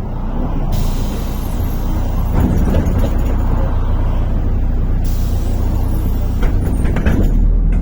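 MAZ-103 city bus's diesel engine running with a low rumble while the bus's air system hisses twice: a long release of compressed air beginning about a second in, and another about five seconds in.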